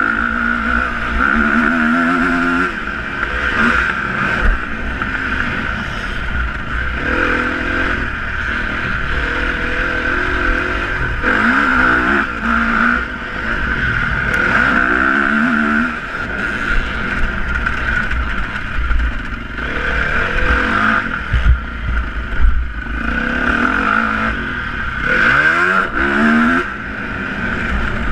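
Motocross bike engines revving, pitch climbing and dropping again and again as the throttle opens and closes, with a steady low rumble underneath.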